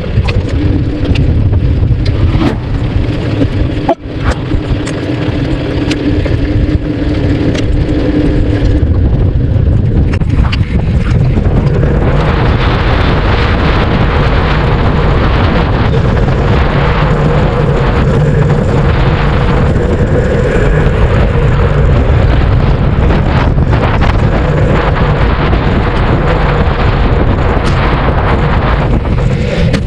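Heavy wind buffeting on the microphone, a loud steady low rumble, with a faint steady hum in the first several seconds.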